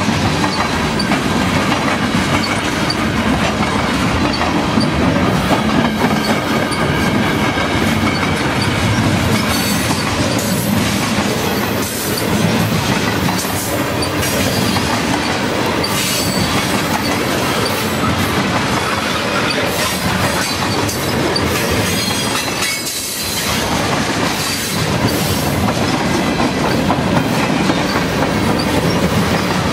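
Freight cars of a long train rolling past close by, first open-top cars and then tank cars: a steady noise of steel wheels on the rails with rhythmic clacking over the rail joints.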